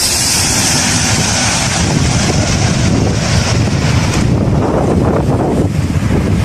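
Four-engine Airbus A340 jet passing very low overhead on final approach, its engines making a loud high-pitched hiss over a low rumble, with wind buffeting the microphone. The hiss dies away about four seconds in, leaving the low rumble.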